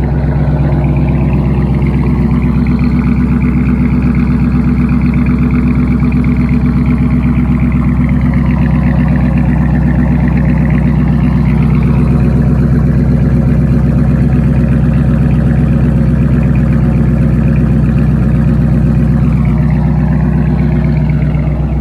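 Modded 2015 Dodge Challenger's engine idling steadily, not revved, just after a cold start in below-freezing temperatures.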